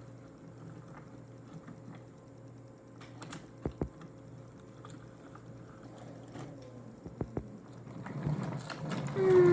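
Small motor whirring steadily, as in a battery-powered toy train running on wooden track, with scattered clicks. It grows louder near the end, where a short higher-pitched sound that dips slightly comes in and is the loudest thing.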